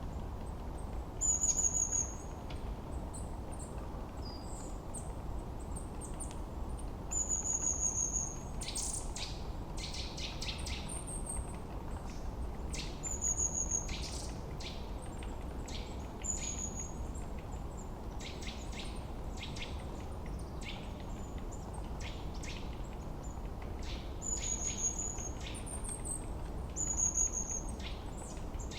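Forest birdsong: one bird repeats a short, high, slightly falling whistled note every few seconds, while other birds add bursts of quick chirps. Underneath runs a steady low rush of wind.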